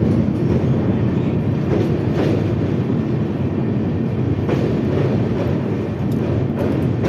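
Indian Railways train running over the Beas river bridge: a steady rumble of wheels on the track, with irregular clicks and clanks from the rail joints.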